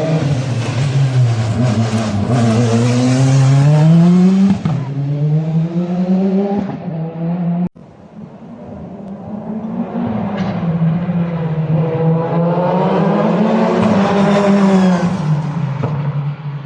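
Praga R1 race car's engine under hard throttle, its pitch climbing and then dropping back several times as it accelerates and shifts or lifts. The sound cuts out abruptly for an instant about eight seconds in, then builds up again.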